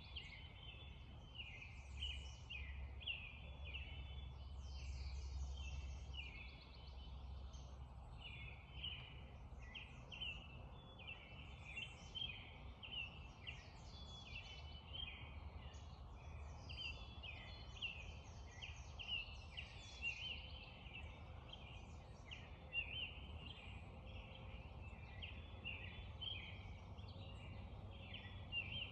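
A dense spring dawn chorus of many birds singing at once: overlapping short, high calls with no pause, over a low steady rumble.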